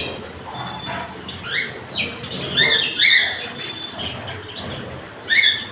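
Birds calling: a string of short, high calls with quick pitch slides, bunched in the middle and again near the end.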